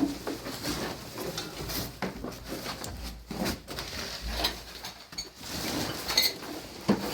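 Irregular light knocks and clatter of objects being handled, with a sharper knock near the end.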